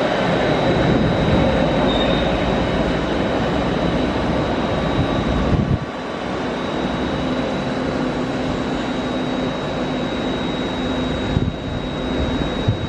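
Passenger train running along the track, a loud steady rumble with a thin high whine over it, briefly dropping in level about six seconds in.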